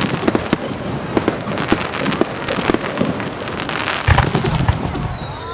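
Fireworks display: aerial shells bursting with dense, rapid crackling, and a heavy low boom about four seconds in.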